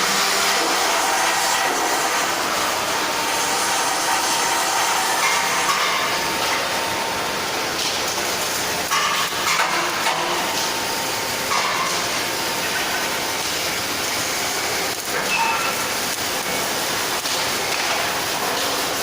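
Steady, loud hissing machine noise of a welding shop, even and unbroken, with a few faint short tones.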